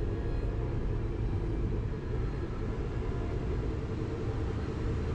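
Steady low rumble of the Vande Bharat Express train running, heard inside the passenger coach.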